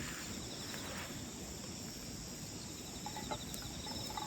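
Crickets chirping steadily in a fast pulsing trill, with a few faint pops from a wood campfire about three seconds in.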